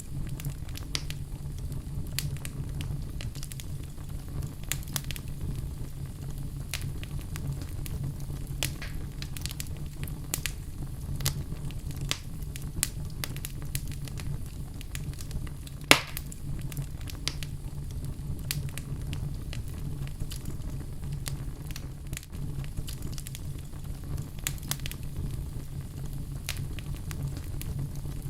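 Wood fire burning in a fireplace: a steady low rumble of flame with frequent small crackles and snaps, and one louder pop about halfway through.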